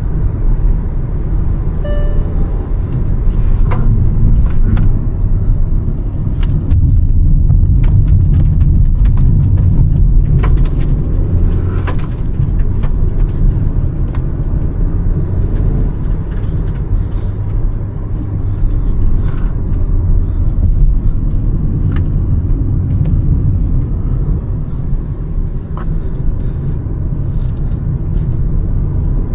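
Hyundai Verna's 1.5-litre turbo petrol engine and its road noise while driving, a steady low rumble that swells a little a few seconds in, with scattered short clicks and knocks.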